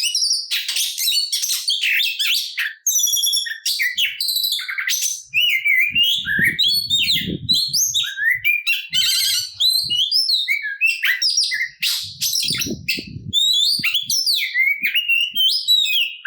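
Oriental magpie-robin (kacer) singing a fast, unbroken song of varied whistles, trills and chattering notes, rich in the borrowed phrases (isian) that kacer keepers prize. Twice a brief low rumbling noise runs under the song.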